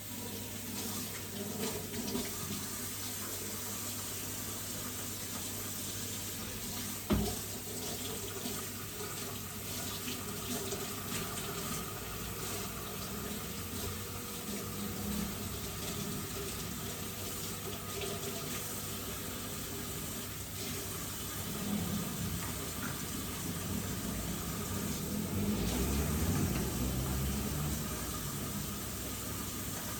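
Water running from a tap into a sink, steady, with a single knock about seven seconds in and louder splashing near the end.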